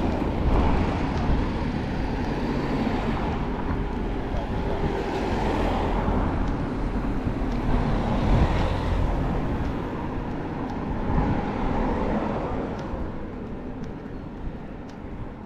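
Road traffic noise: motor vehicles passing, swelling twice in the middle and fading away near the end.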